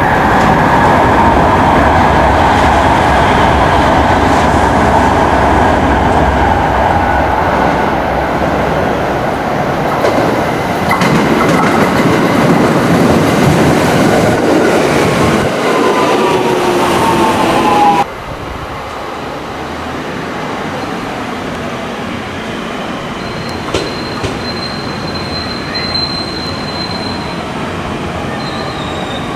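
A train moving through a station: loud rumble of wheels on the rails, with steady high squealing tones over it. About eighteen seconds in the sound drops abruptly to a quieter train sound. A thin high squeal follows a few seconds later.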